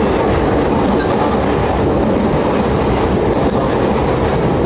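Electric commuter train running past close by: a steady rumble of wheels on rails that holds level throughout.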